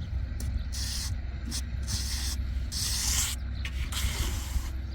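Repeated scraping strokes of a tool over wet concrete, about eight uneven strokes in the few seconds, over a steady low hum.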